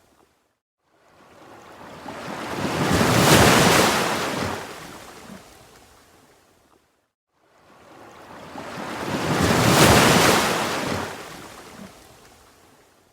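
Ocean waves breaking in two even swells. Each one builds to a peak and washes back out to near silence before the next rises.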